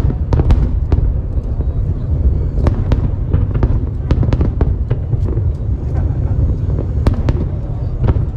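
Aerial fireworks display: a rapid run of sharp bangs and crackles, several a second, over a continuous low rumble.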